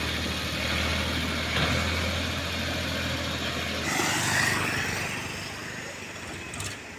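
Heavy diesel engine idling with a steady low hum that stops abruptly about four seconds in. A brief, louder, noisier sound follows, and then the sound dies down.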